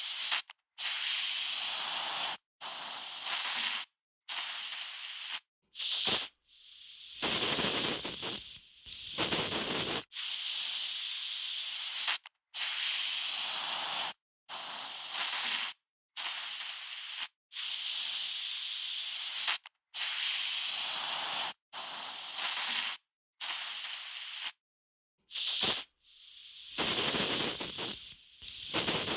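Aerosol spray can spraying in repeated hissing bursts, each lasting a second or two, with short silent gaps between them. A couple of the longer sprays start softer and fuller before settling into the thin hiss.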